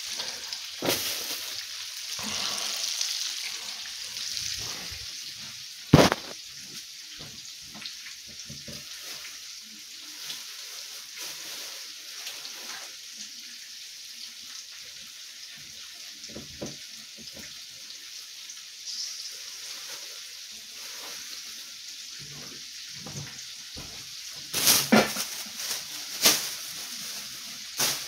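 Chicken drumsticks sizzling as they fry in hot oil, a steady hiss. A sharp knock comes about six seconds in, and a few more knocks near the end.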